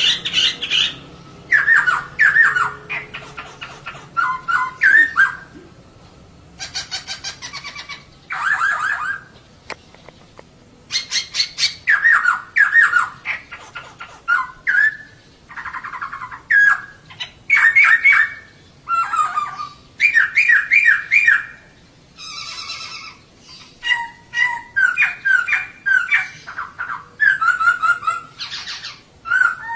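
Female poksay (laughingthrush) calling: phrase after phrase of rapid, squeaky chattering notes, each burst about a second long with short pauses between.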